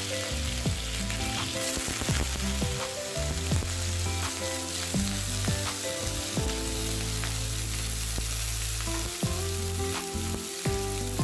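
Cubes of raw jackfruit sizzling steadily as they fry in hot mustard oil in an aluminium kadhai, with a few light knocks along the way.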